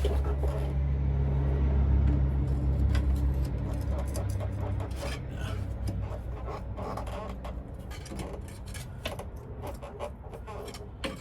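Metal scraping and clinking as a driveshaft yoke is worked by hand on its oily splines without coming off, over a low steady hum that fades after the first few seconds.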